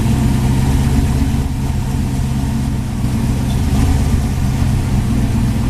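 Twin-turbo LSX 402 V8 in a 1970 Chevelle running at a steady idle on its first startup.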